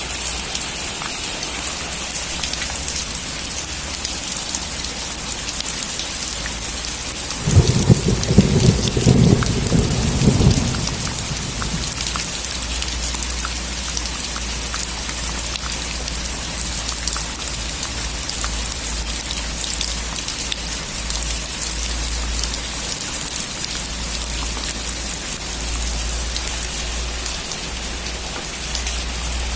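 Heavy rain drumming on a metal roof, a steady hiss full of small drop ticks. About seven seconds in, a thunder rumble rolls through for some three seconds, the loudest sound here, then fades into a low background rumble under the rain.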